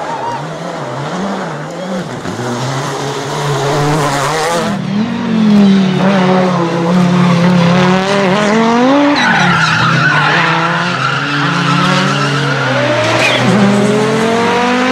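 Rally car engine revving hard, its pitch climbing and dropping with gear changes, getting louder as the car comes closer, with tyres skidding on the stage surface.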